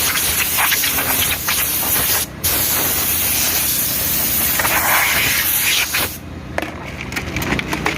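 Compressed air hissing steadily from a blow gun, as used to blow dust out of a truck's air filter element. It breaks off for a moment a couple of seconds in, resumes, then stops about six seconds in, leaving a few light clicks.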